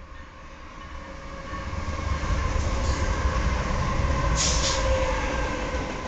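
Diesel freight locomotives passing close, their low engine rumble building about a second and a half in and staying loud as the freight cars begin to roll by. A brief high hiss comes about two-thirds of the way through.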